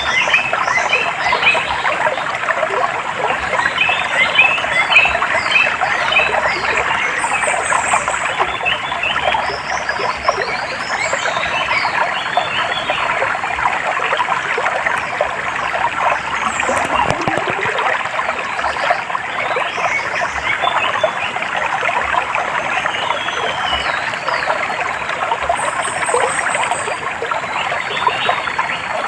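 Running water trickling under a dense, continuous chorus of bird calls, with scattered higher chirps and short sweeping whistles.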